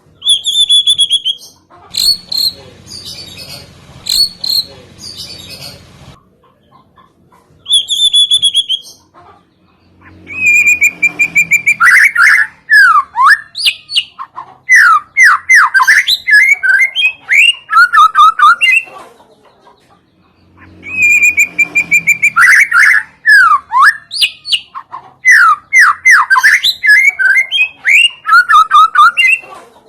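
Songbird song from a lure track for white-rumped shamas (murai batu): a high held whistle with short chips, repeated, then two long bursts of loud, fast, varied song made of sweeping and falling whistles, the second phrase-for-phrase like the first.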